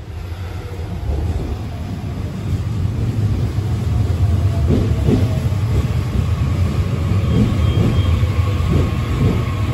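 Train pulling into the station platform: a loud low rumble of wheels on rails that builds over the first few seconds and then holds.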